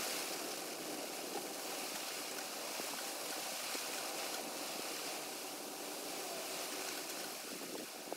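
Steady outdoor rushing noise, an even hiss with no clear single source.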